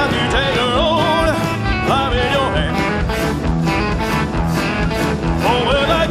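Live rock-and-roll band playing, with electric guitar lines over a steady drum beat.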